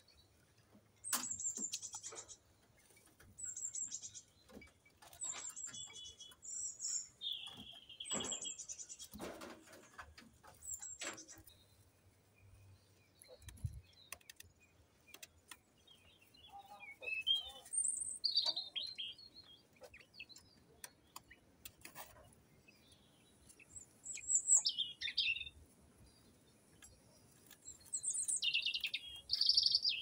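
Birds chirping in short, high-pitched, trilled phrases that come in bursts every few seconds, with scattered faint clicks between them.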